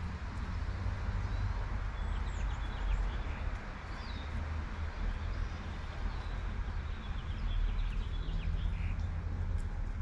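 Light rain falling steadily, over a low steady rumble of traffic, with many short bird chirps scattered throughout.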